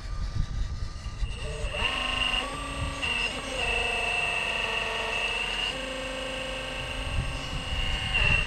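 Electric motor and speed-controller whine of an RC rock crawler crawling under throttle, the whine shifting pitch in steps as the throttle changes. Low wind rumble buffets the microphone throughout.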